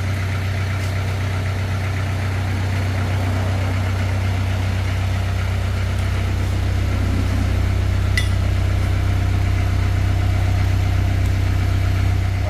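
A vehicle engine idling steadily with a deep, even hum, and a couple of faint clicks over it.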